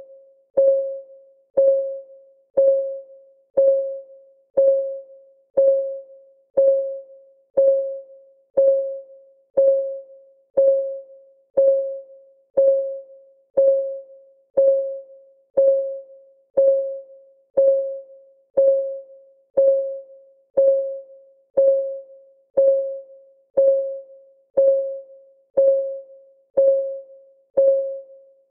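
Countdown timer's ticking-clock sound: an even tick once a second, each tick a short pitched note with a sharp click at its start that dies away quickly.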